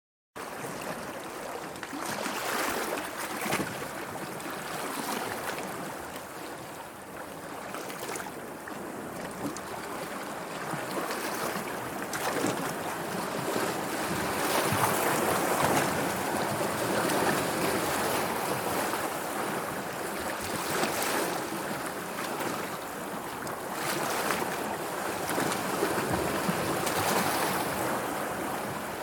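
Sea waves washing and lapping, swelling and easing every few seconds.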